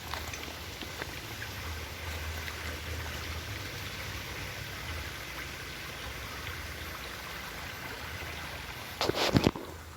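Steady rushing of a flowing stream. About nine seconds in there is a brief, louder clatter close by.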